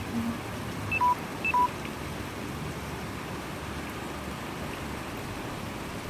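Two short electronic beeps about half a second apart, over a steady hiss of heavy rain.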